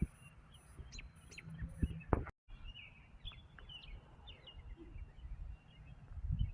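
Small birds chirping before dawn, with short calls and quick falling notes, over an irregular low rumbling noise. The sound cuts out completely for a moment a little over two seconds in.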